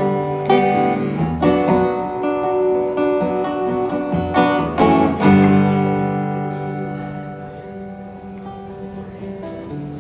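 Acoustic guitar strumming chords in an instrumental break between sung verses. The strums come thick through the first half; a chord struck about five seconds in is left to ring and fade.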